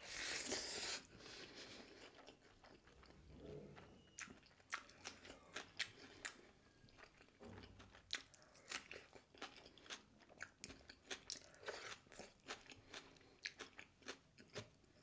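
Close-miked eating: a loud, noisy burst in the first second as a handful of rice and egg curry goes into the mouth by hand, then chewing with many sharp crunchy clicks from biting raw red onion.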